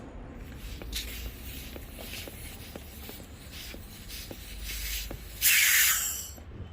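Soft rubbing and light ticks of hoses and fittings being handled on a car air-conditioning gauge and vacuum setup, then one loud, short hiss of air of under a second about five and a half seconds in, as the just-evacuated system is being closed off.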